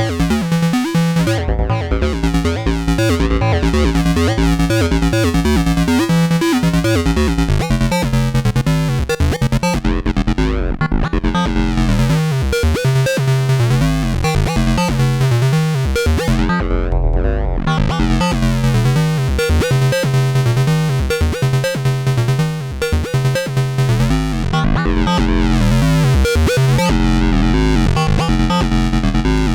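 Analog synthesizer music from a Neutron and a Donner B1 bass synth: a sequenced, repeating bass line with synth tones layered above it.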